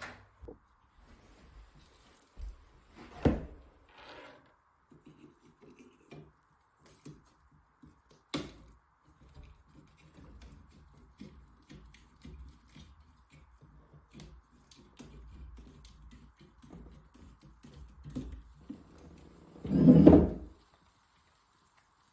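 Scattered knocks, clicks and clinks of tools and fittings being handled while sink plumbing is disconnected, with one heavy thump near the end.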